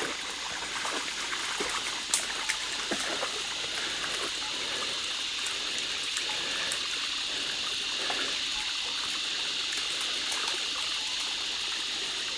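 Shallow creek water trickling and flowing steadily, with a few small splashes in the first three seconds.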